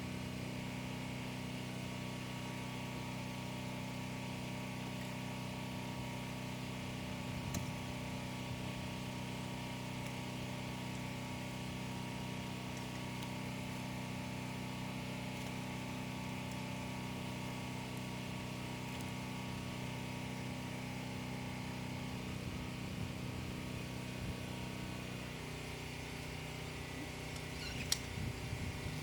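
A steady mechanical hum, like an engine running evenly, whose tone shifts slightly near the end, with a few faint clicks.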